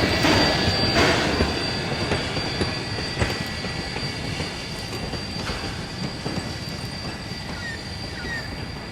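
Steam train hauled by Rogers-built locomotive K 88 running on the rails, its wheels and carriages rattling with a few knocks and a thin steady high squeal. The sound fades steadily as the train draws away.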